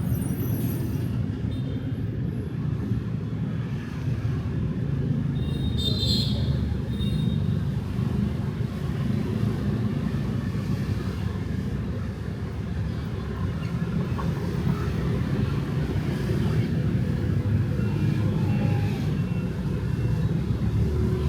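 Steady low rumble of city street traffic, motorbikes and cars passing. There is a brief high squeak about six seconds in.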